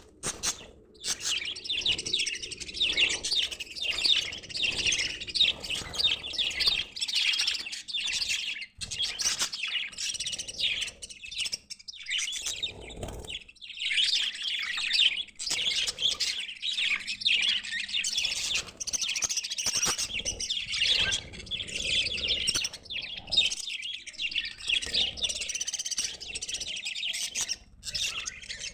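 Budgerigars chattering and warbling: a dense stream of fast overlapping chirps, broken by a few brief pauses.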